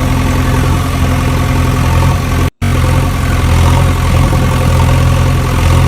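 Engine idling steadily with a low, even drone. It cuts out for an instant about two and a half seconds in, then carries on.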